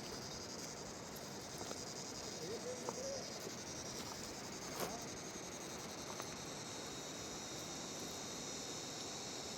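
Steady rush of a mountain river, with a high, steady chirring of insects over it and a few faint clicks.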